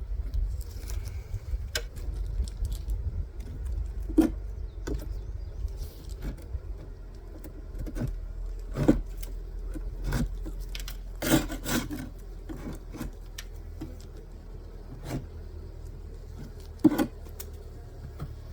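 Scattered knocks and clicks of a beehive being handled during an inspection, with the sharpest knock near the end. A low rumble underlies the first several seconds.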